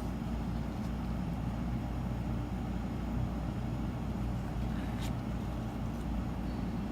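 Steady low rumble of background noise, with one light tap about five seconds in.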